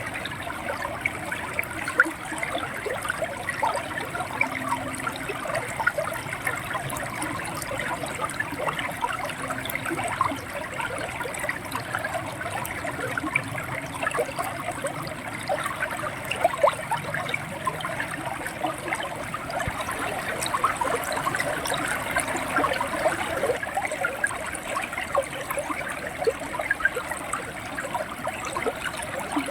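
River water running and gurgling over rocks, a steady flow with many small splashes and bubbling sounds.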